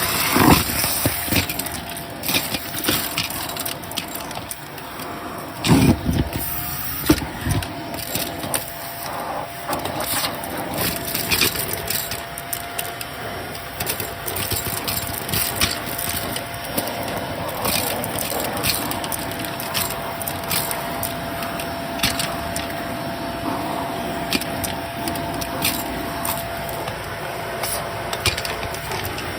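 Vacuum cleaner running steadily with a constant motor whine, while grit and debris crackle and click as they are sucked up, with a few louder knocks.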